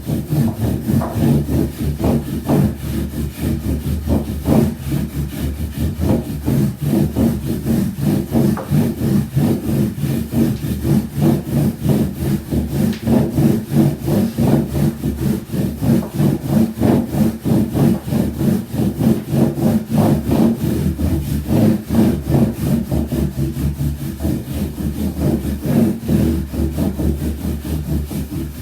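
Wooden soba rolling pin rolling buckwheat dough back and forth on a wooden board, a rhythmic rubbing at about two strokes a second over a steady low hum.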